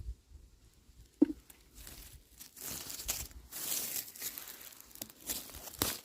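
Rustling, tearing and crackling of forest-floor moss and undergrowth being handled and pulled, as when mushrooms are picked. There is one sharp snap about a second in, and the rustling grows busier from about halfway.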